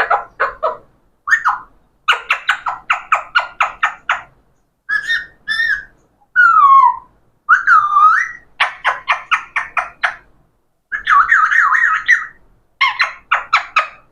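Parrot calling: runs of short, rapidly repeated squawking notes, broken about halfway through by two whistled notes that slide in pitch.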